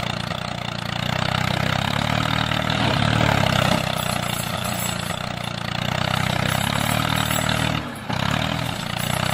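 A mini tractor's engine running steadily, with a brief drop in level about eight seconds in.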